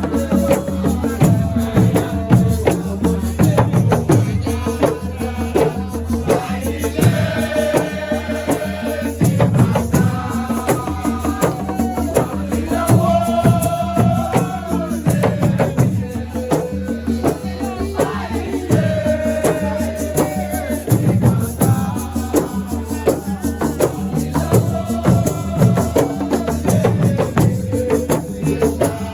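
Live assiko music: a steady driving rhythm of drums and rattles, with sung phrases coming in every few seconds.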